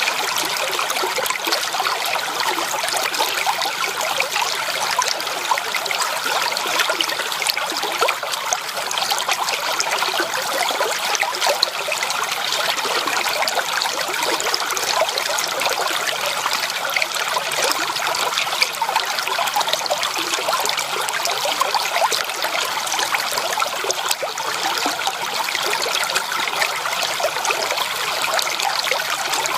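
Shallow creek water trickling and babbling over stones in a steady, unbroken flow.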